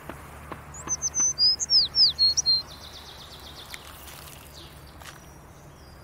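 A songbird sings one short phrase of high whistled notes and downward-slurred notes, ending in a quick trill, over a steady low hum of outdoor background.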